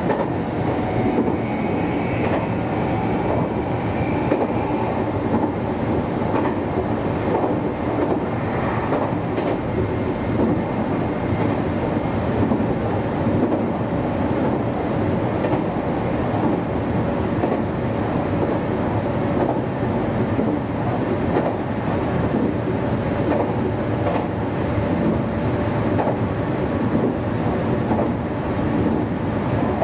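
Meitetsu 1200 series electric train running steadily along the track: a continuous rumble of motors and wheels with the clickety-clack of rail joints.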